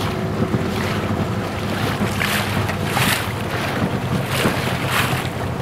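Small boat under way: its motor runs steadily under a rush of water against the hull and wind on the microphone, with a few louder splashes in the second half.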